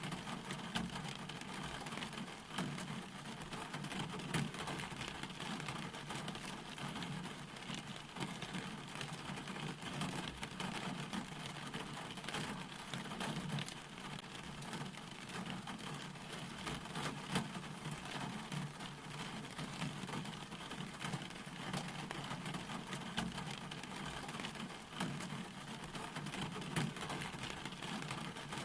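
Steady rain falling, with many separate drop hits crackling through the even hiss.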